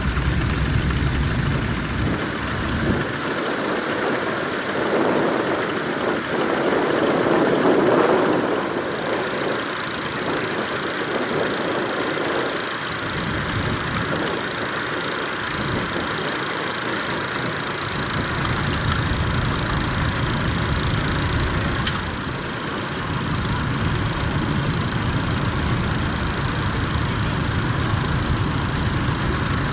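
Tractor engine running. Its deep rumble drops away for several seconds in the first half, then returns.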